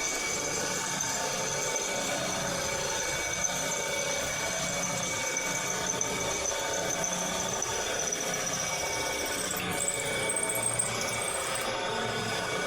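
A motor-driven machine running steadily with a high whine made of several lasting tones, with a slight shift about ten seconds in.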